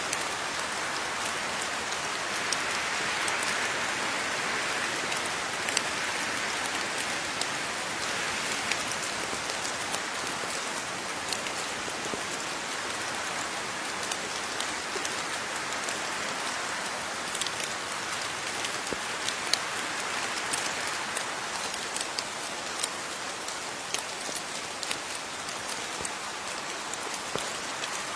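Steady rain falling, with a constant hiss and the sharp ticks of individual drops striking a surface.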